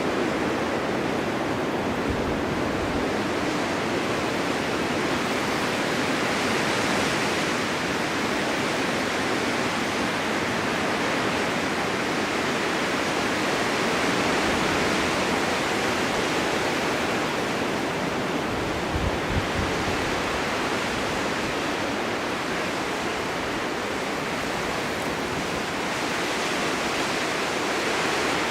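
Blizzard wind driving snow: a steady rushing hiss that swells and eases every several seconds, with a couple of brief low thuds.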